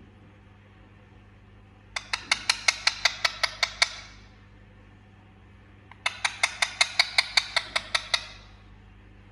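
Indian ringneck parrot calling in two runs of rapid, repeated high-pitched notes, about six or seven a second. Each run lasts about two seconds, with a two-second pause between them.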